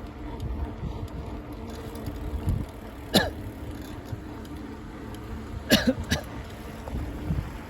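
Steady low rumble of a bicycle ride with wind on the microphone, broken by three short, sharp sounds: one about three seconds in and two close together near six seconds.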